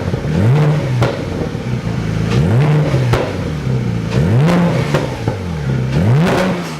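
Porsche 991 GT3's naturally aspirated flat-six, breathing through a SOUL valved side-muffler bypass exhaust, blipped repeatedly: about four quick revs, each rising and then falling back, with short sharp cracks from the exhaust in between.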